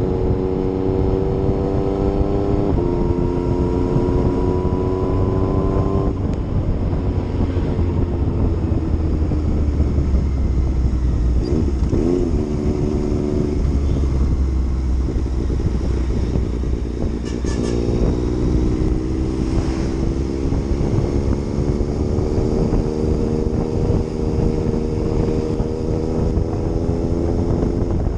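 Yamaha MT-09's three-cylinder engine running under way, with wind rumble on the microphone. The engine note steps down in pitch about three seconds in, drops away around six seconds, then comes back near eighteen seconds and climbs slowly as the bike accelerates.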